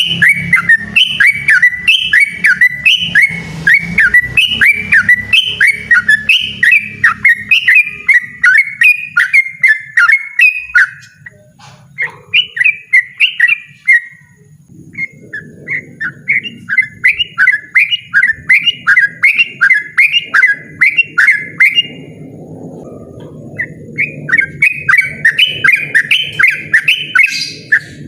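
Yellow-vented bulbul singing a loud, persistent run of short, rapidly repeated chirping notes, about two to three a second, broken by a few brief pauses.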